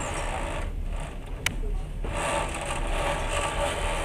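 Steady low rumble of a passenger train moving slowly, heard from inside a carriage, with one sharp click about a second and a half in.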